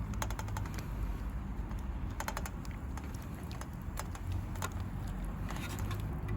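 Wood fire crackling under a pan of boiling pasta: irregular clusters of sharp pops and ticks over a low steady rumble.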